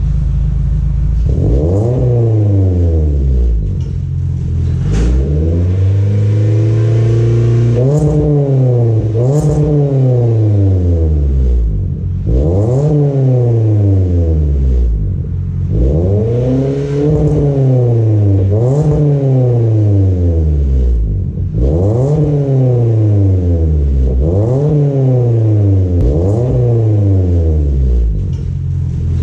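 Toyota Corolla engine revved about a dozen times through a custom 2½-inch exhaust with split rear Magnaflow mufflers. Each rev rises in pitch and falls back, one held for a couple of seconds partway through.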